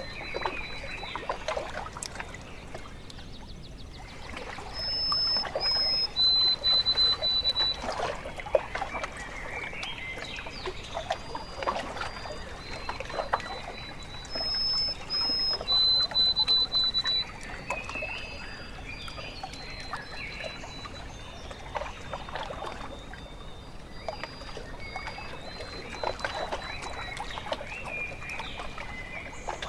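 Small waves lapping and trickling at a lake shore, with birds singing over it. Twice, about ten seconds apart, a bird gives a clear whistle of a higher held note followed by a lower one.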